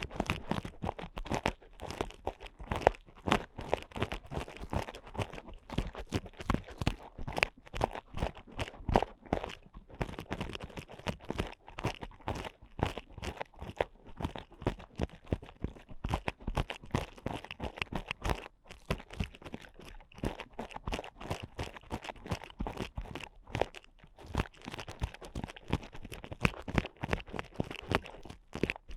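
Ear picks scraping and scratching hard inside a microphone's ear in an ear-cleaning ASMR recording: a dense, uneven run of crunchy, crackling strokes.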